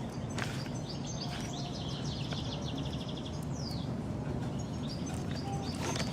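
A small bird singing a quick run of high chirps that ends in a falling note, over a steady low background hum.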